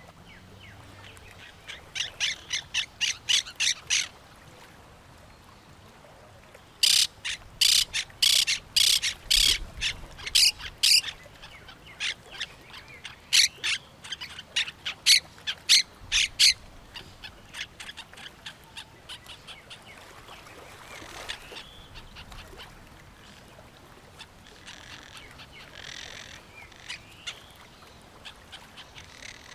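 Birds calling in fast runs of sharp, high, repeated notes, about four or five a second: a short run about two seconds in, then two longer, louder runs in the middle, after which only fainter, softer calls go on.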